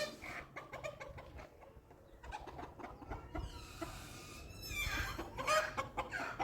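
Domestic chickens clucking in short pitched calls, louder near the end.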